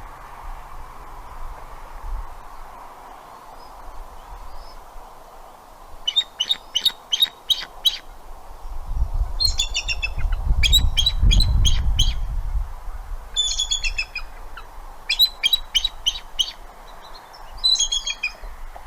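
Bald eagle calling: about six bouts of rapid, high-pitched chittering notes, each bout a second or two long, starting about six seconds in. A low rumble swells under the calls around the middle.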